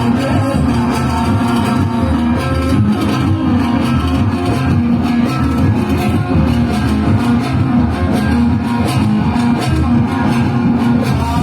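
Loud instrumental band music, mostly electric guitar with bass over a steady beat, playing without pause.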